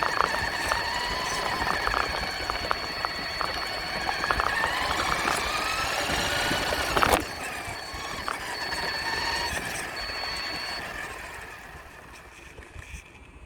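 Radio-controlled truck driving, its motor giving a high whine that rises and falls in pitch, with scattered small clicks and knocks. There is one sharp knock about seven seconds in, and the sound grows fainter near the end.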